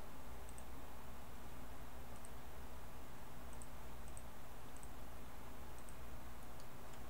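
Faint computer mouse clicks, about seven, mostly in quick pairs and spaced irregularly, over a steady low electrical hum and microphone hiss.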